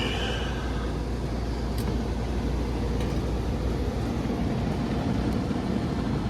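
HVAC air handler running with a steady rumble while the heat call is on; the deep hum eases about four and a half seconds in. Its electric auxiliary heat strips draw no current.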